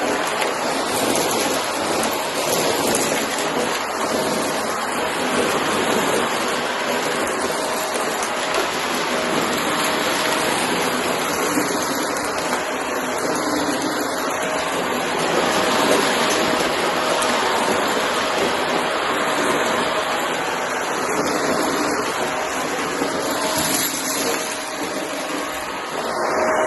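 Shark vacuum cleaner running steadily: a continuous rushing noise with a faint steady whine.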